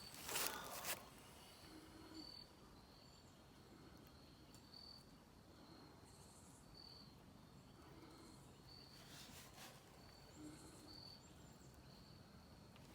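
Faint insect chirping: a short, high chirp repeating about once a second over quiet outdoor background, with brief faint rustling near the start and again about nine seconds in.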